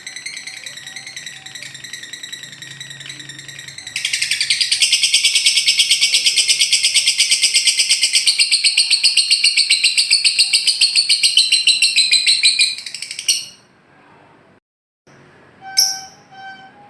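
Lovebird ngekek: a loud, very fast rattling trill that starts about four seconds in and runs unbroken for about nine seconds before stopping abruptly. It is preceded by softer, quicker chirping and followed, after a short pause, by a few separate sharp chirps.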